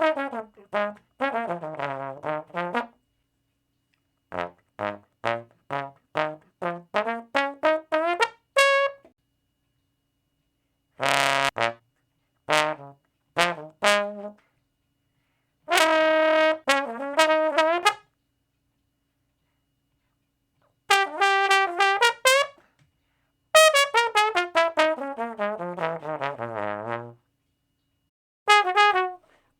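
Tuba playing a series of short brass phrases separated by silent gaps: quick runs of notes that fall in pitch, a run that climbs, and a few short held notes.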